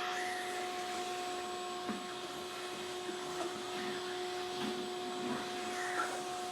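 Wet/dry shop vacuum running steadily while cleaning a subfloor: a constant motor whine over a rushing hiss, with scattered small ticks and scrapes.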